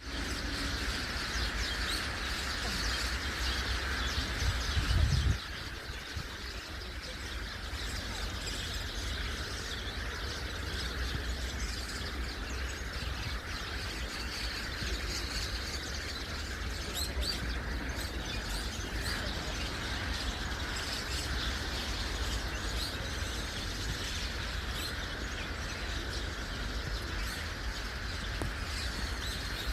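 A large flock of birds calling and chattering continuously over a low outdoor rumble, with a brief louder low thump about five seconds in.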